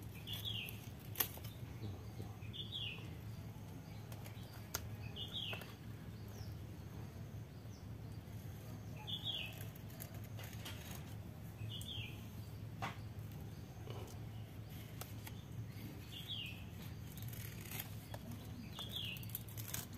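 A bird repeats a short, high, falling chirp every few seconds. Under it are soft scraping and a few sharp clicks from a small blade shaving the husk of a green ivory coconut bonsai; the sharpest click comes about a second in.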